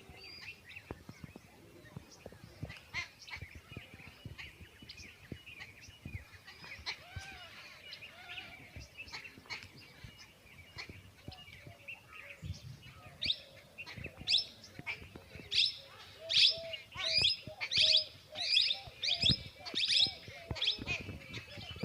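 Small birds chirping: many short, high calls, which become louder and come as a quick repeated run of about two chirps a second from about halfway through.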